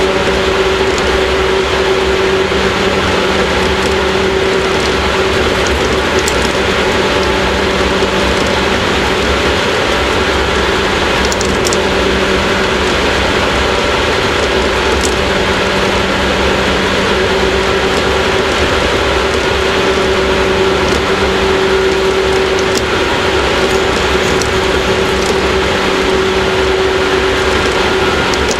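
Inside a JR 115-series EMU motor car (KuMoHa 115) running between stations at a steady speed: a steady motor and gear hum over continuous wheel-on-rail rumble. The hum dips for a moment about halfway, and a few faint clicks come through.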